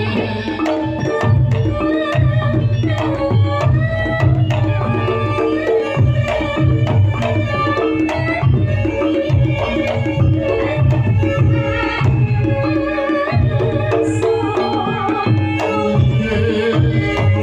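Javanese campursari music in langgam style, with kendang hand drums playing a steady pulse under melodic instruments.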